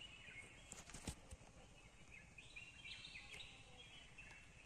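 Faint bird calls: short high phrases that step up and down in pitch, heard near the start and again in the middle, over a low outdoor background hum. There are a couple of sharp clicks about a second in.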